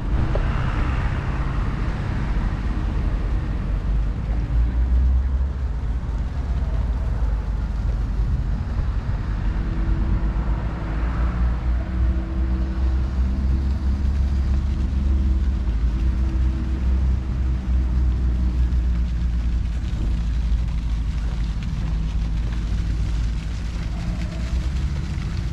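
Road traffic: a vehicle engine running with a steady low rumble, and a steady hum that rises out of it about ten seconds in and fades a few seconds later.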